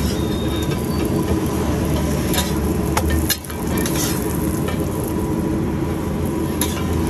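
Stuffed paratha frying in oil on a large flat iron tawa, with a steady sizzle. A metal spatula clicks and scrapes against the griddle a few times.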